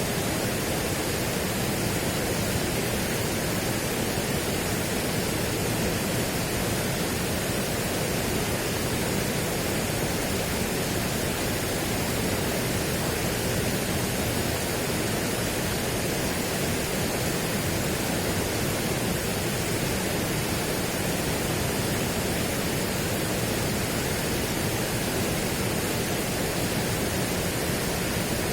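Steady, unchanging rushing noise spread evenly from low to high, with no separate events.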